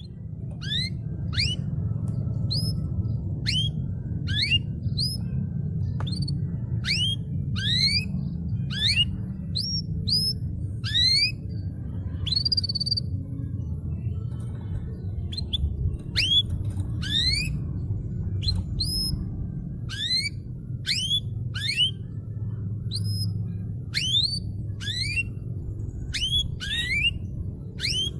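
Canary calling in a long series of short rising whistled notes, about one a second, with a brief pause about halfway, over a steady low rumble.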